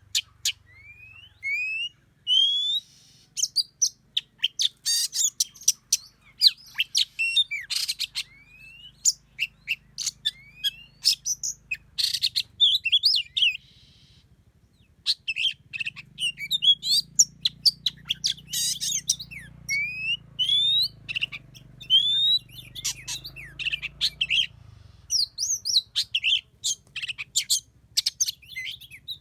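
Oriental magpie-robins singing and calling: a busy run of clear whistled notes, many short and rising, mixed with sharp chirps, with a faint low hum beneath.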